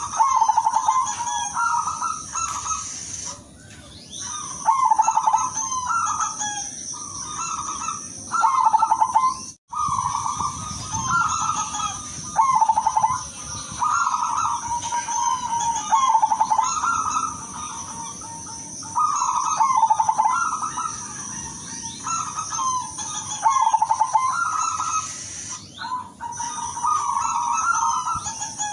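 Silver perkutut (zebra dove) cooing: short, bubbling, trilled coo phrases repeated about once every second or two. The audio drops out briefly about ten seconds in.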